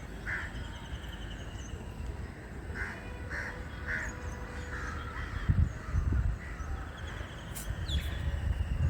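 Crows cawing: a single caw just after the start, then a run of three short caws, over a steady low rumble with a few louder low bumps near the middle.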